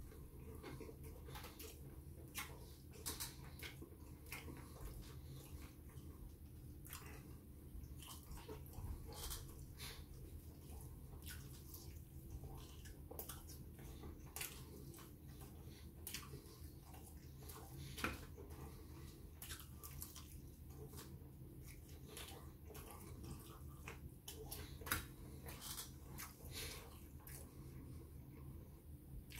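Quiet close-up eating sounds: wet mouth clicks and smacks of someone chewing fried chicken and chips, scattered irregularly, with a few louder smacks about 3, 18 and 25 seconds in.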